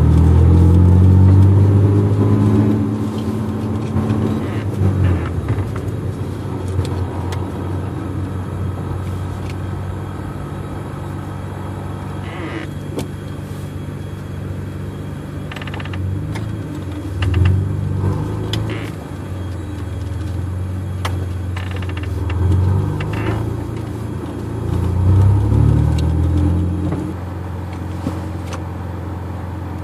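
Car engine heard from inside the cabin, running at low speed with a steady low hum that is loudest in the first few seconds, then swells briefly several times as the car picks up speed gently.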